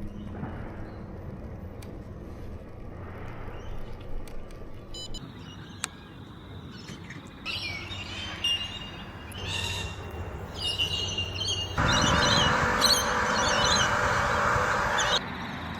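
Birds calling and chirping in bushland, a few separate calls at first. About twelve seconds in, a much louder burst of dense bird chatter cuts in, then stops abruptly about three seconds later.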